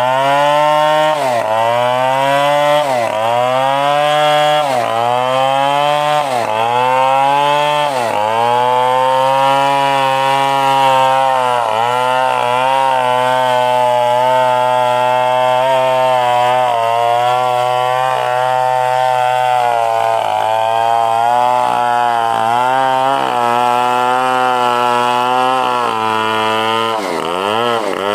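Stihl 070 large two-stroke chainsaw running hard while cutting wood. For the first several seconds its pitch repeatedly sags and recovers every couple of seconds, then it holds a steady, loaded note, with one more dip and recovery near the end.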